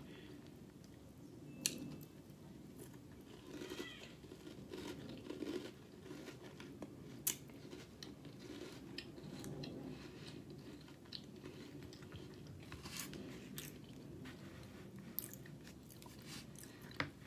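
A person chewing a mouthful of sweet corn-puff cereal in milk, with faint, scattered crunches and small clicks, over a steady low background noise.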